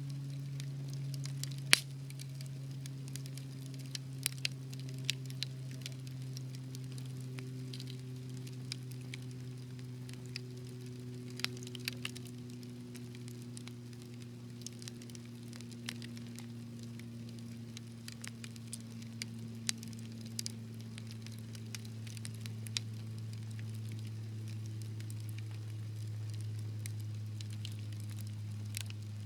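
Wood fire crackling, with irregular sharp snaps and pops, the loudest about two seconds in. Underneath runs a low hum that slowly falls in pitch.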